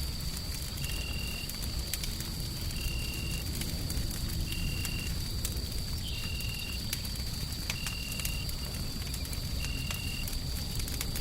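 Wood fire crackling with scattered sharp pops over a steady low rumbling noise bed. A short high chirp repeats about every two seconds over a steady high-pitched tone.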